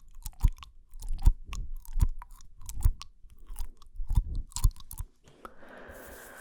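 Close-miked wet mouth sounds: lip smacks and tongue clicks, a few each second. Near the end they give way to a breathy hiss lasting about a second and a half.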